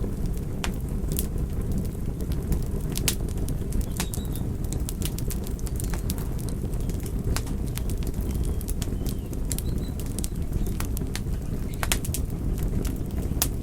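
Wood fire burning: a steady low rumble from the flames with irregular sharp crackles and pops scattered through it.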